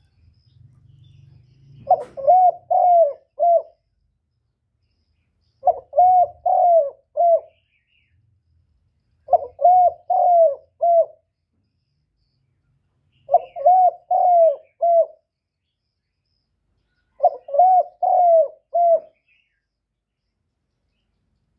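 Male spotted dove cooing: five phrases about four seconds apart, each a quick run of four coos.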